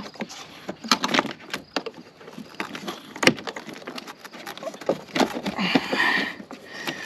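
Irregular plastic clicks, knocks and a scraping rustle as a car's air filter housing is worked loose by hand, with one sharp snap about three seconds in.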